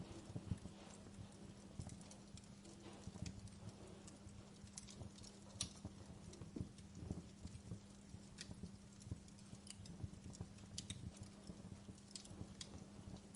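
Wood fire burning in a fireplace: logs crackling with frequent irregular small pops and snaps over a low rumble of the flames.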